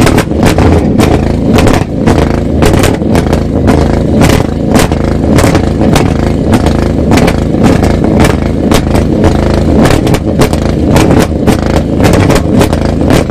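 Loud car engines and exhausts running and revving, a dense continuous din with many sharp cracks.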